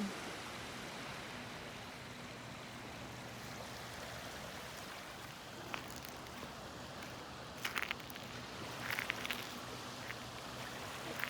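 A small stream trickling and running with a steady rushing sound, with a few short sharp clicks about halfway through and again near the end.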